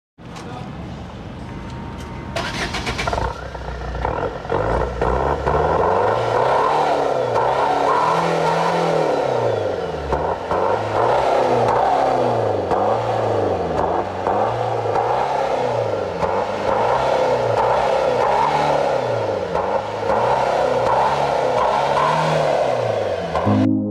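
Car engine revved over and over through a loud aftermarket exhaust, its note rising and falling about once a second after a short swell in the first few seconds.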